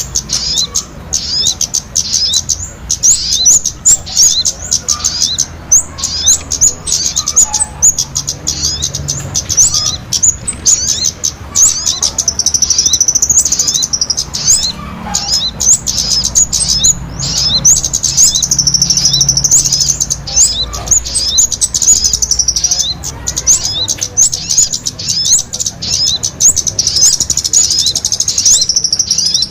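Bird-lure call recording of small birds chirping: a dense stream of quick, high-pitched chirps, several a second, with longer trilled stretches now and then, played to draw small birds in.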